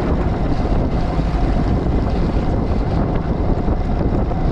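Strong wind buffeting the microphone aboard a sailboat, a steady low rushing noise with no let-up.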